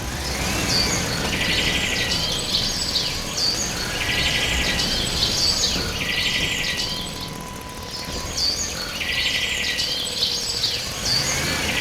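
Bird calls: the same short chirping phrase repeats every few seconds over a steady low rumble.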